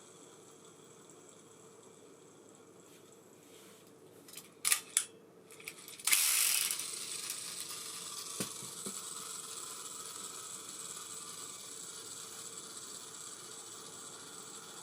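Two sharp clicks, then the spool of an Abu Garcia Ambassadeur 5500C baitcasting reel set spinning freely: a whir that starts loud about six seconds in and slowly dies away as the spool coasts down.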